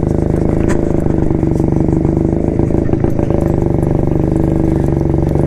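1972 Jawa single-cylinder two-stroke motorcycle engine running at a steady pace under way, with a dense, even exhaust beat.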